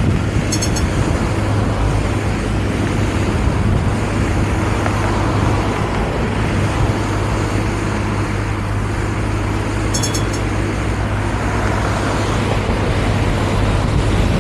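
Vario LF2R.E tram running, with a steady rumble of wheels on rails under a steady hum. Two brief high-pitched chirps come through, one just after the start and one about ten seconds in.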